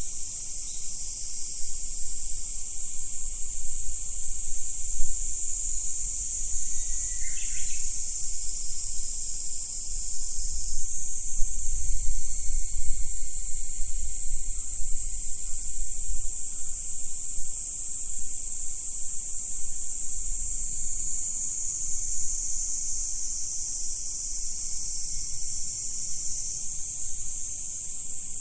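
Steady, high-pitched chorus of insects that rises and falls slightly in pitch, with one short, falling bird call about seven seconds in. A low rumble runs underneath.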